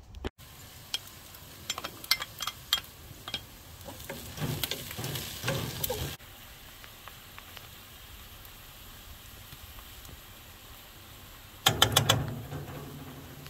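Sliced onions frying in a pot over a charcoal grill and being stirred with a wooden spoon: scraping and clicks over sizzling, settling into a fainter steady sizzle. Near the end comes a quick run of loud clicks as a metal spoon knocks against the pot.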